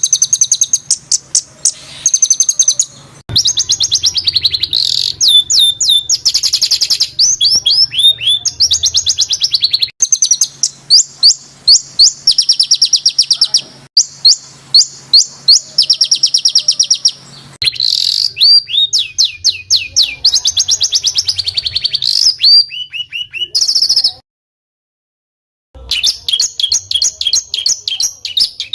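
Small songbird singing fast, harsh rolling trills and tight runs of repeated sharp notes, high-pitched, one burst after another, the rapid 'shots' that masteran training recordings are made of. The song stops dead for about a second and a half near the end, then picks up again.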